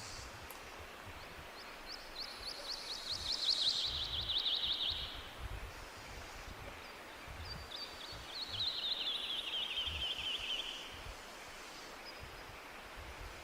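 A songbird singing two songs a few seconds apart, each a quick run of short, sharp repeated notes that speeds up and falls slightly in pitch, lasting about three seconds. Under it is a steady low background rumble.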